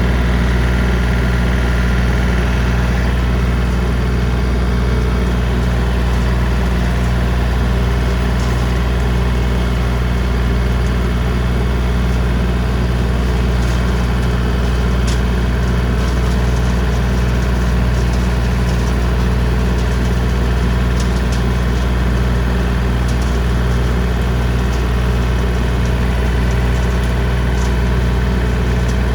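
John Deere 3025D compact tractor's three-cylinder diesel running steadily at constant throttle, pulling in first gear low range while working a rotary brush cutter. Faint scattered ticks come in over the engine from about eight seconds in.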